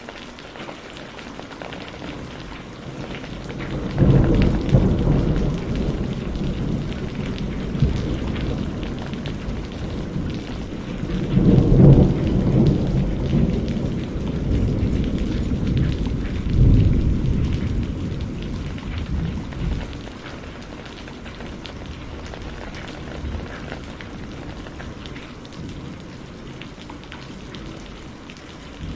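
Steady rain falling, with thunder rumbling in three low swells over the first two-thirds, the loudest about twelve seconds in, before it fades back to rain alone.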